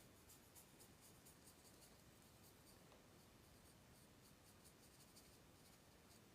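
Faint, repeated short scratchy strokes of a paintbrush dragging acrylic paint across the painting surface, several to the second, thinning out after about three seconds.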